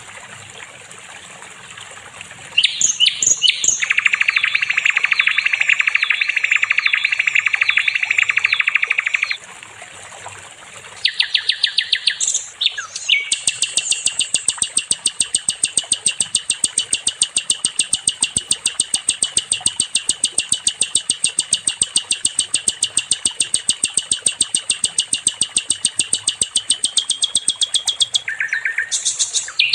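Sikatan londo, a flycatcher kept as a songbird, singing loud, rapid trills of fast-repeated notes. The first trill runs for about seven seconds, a short burst follows, then one long trill holds steady for about fifteen seconds. A few short notes come near the end.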